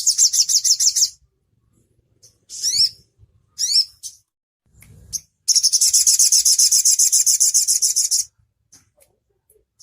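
A konin songbird singing high-pitched phrases. It opens with a fast trill of repeated notes, gives two short bursts of rising notes, and then a long rapid trill of about three seconds.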